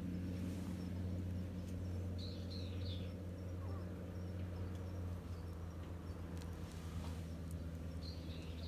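A small bird calls twice: a short cluster of high chirps about two seconds in, and a similar one near the end. Under the calls runs a steady low hum.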